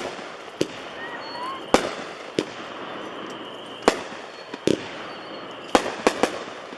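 Pirate King 'Party Animal' 12-shot 200-gram aerial repeater cake firing: about nine sharp bangs at uneven intervals, some coming in quick succession near the end.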